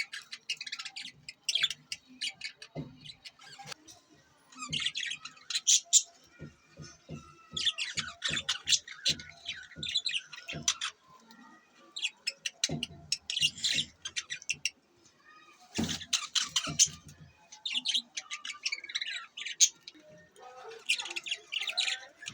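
Budgerigars chirping and warbling in quick bursts of high notes every second or two, with runs of sharp taps or clicks in between.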